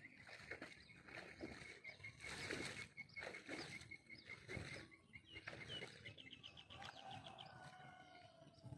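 Faint outdoor bird calls: a short high note repeated about five times a second, then a fast ticking trill and a lower, slowly falling note near the end, with scattered soft knocks and rustles.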